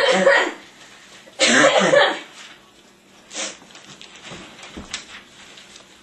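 A person coughing: two loud coughs in the first two seconds, then a shorter one about three and a half seconds in.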